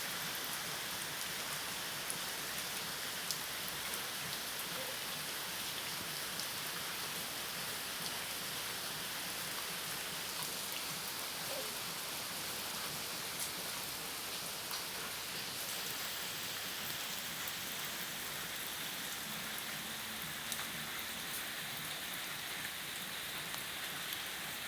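Steady rain falling, an even hiss with scattered single drop taps.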